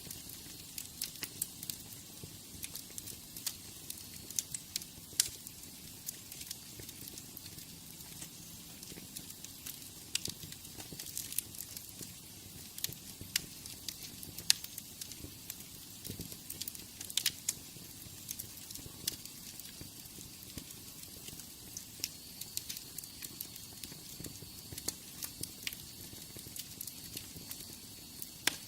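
Wood fire burning in a fireplace: a soft steady hiss with irregular crackles and occasional sharper pops.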